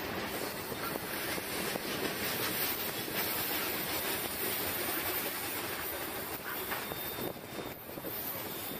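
Freight train of tank cars rolling past: a steady noise of steel wheels running over the rails, with faint clicks mixed in.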